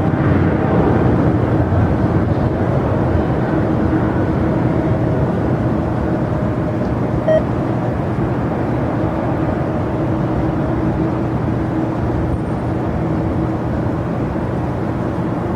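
Jet airliner engines running at the airport, a steady rumble with a held humming tone that eases off slightly toward the end. A brief click about seven seconds in.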